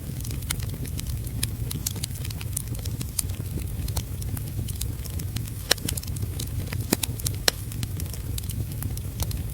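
Wood fire in a fireplace crackling, with frequent small snaps and a few louder pops around the middle, over a steady low rumble and rain patter.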